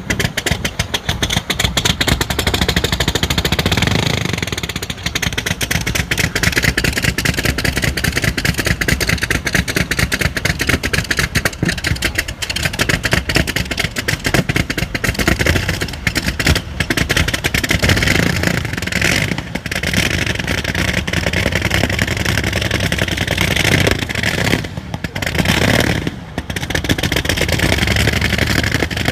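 Aero-engined vintage race car's engine running loudly with a rapid, uneven beat of firing pulses, briefly dipping a few times.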